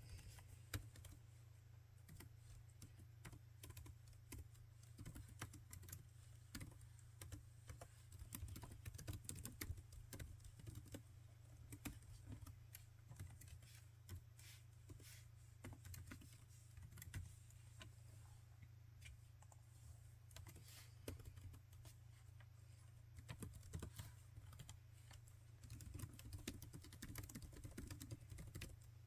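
Laptop keyboard being typed on: quiet, irregular key clicks, in busier runs and pauses, over a steady low hum.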